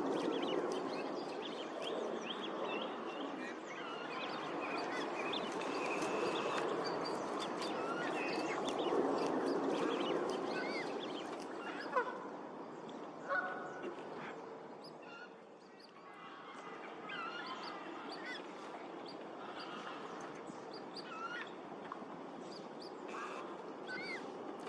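Geese honking, busiest and loudest in the first half and thinning out after the middle, with other waterfowl and birds calling. There are two sharp knocks about halfway through.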